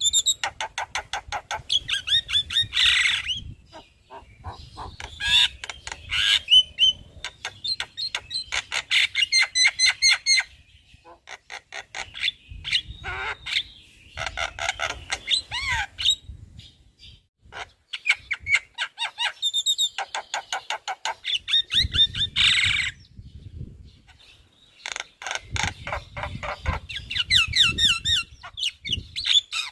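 Javan myna (jalak kebo) singing loudly: phrases of a few seconds made of rapid repeated chattering and whistled notes, with short pauses between them. It is showing off its repertoire of mimicked phrases.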